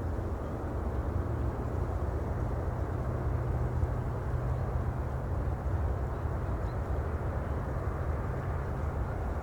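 A steady low rumbling noise, strongest in the bass, holding an even level with no distinct events.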